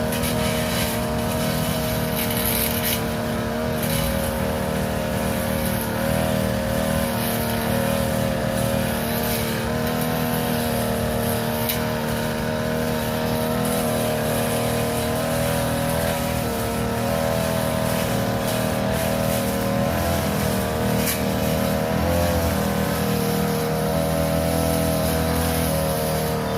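Petrol grass-cutting machine running steadily while cutting overgrown grass and weeds, its engine pitch wavering slightly as the load changes.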